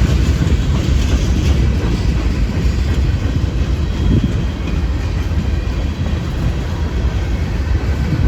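Freight cars of a long mixed freight train rolling slowly past, steel wheels clicking over the rail joints, with a heavy, steady low rumble of wind on the microphone.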